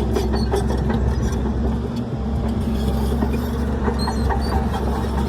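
Heavy diesel engine of earthmoving machinery running steadily, a low hum with scattered light clicks and rattles over it.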